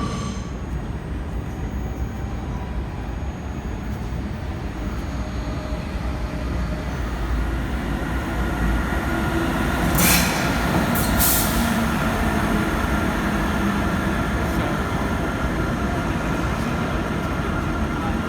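A train running through a station with a steady low rumble, and two short hisses about ten and eleven seconds in.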